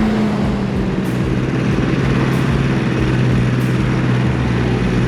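Road-going go-kart engine running under way, its note easing down in the first second and then holding steady.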